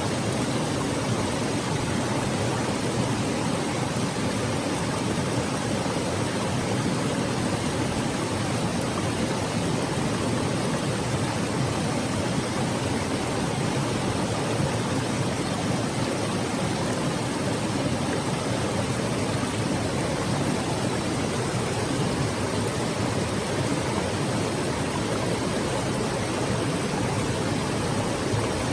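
A mountain stream flowing over rocks: a steady, even rush of water.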